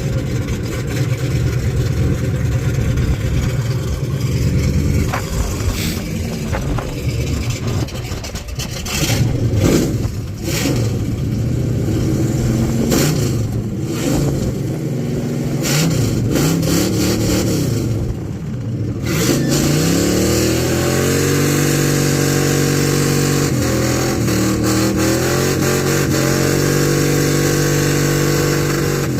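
Old truck's engine revving hard again and again with sharp cracks in between, then held steadily at high revs for the last several seconds, as in a burnout.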